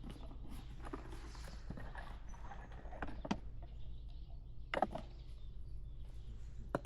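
About half a dozen scattered knocks and clicks, like gear being handled, over a steady low hum.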